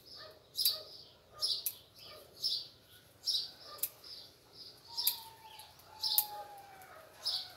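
A small bird chirping over and over, a short high chirp about once a second, with a few faint sharp clicks among the chirps.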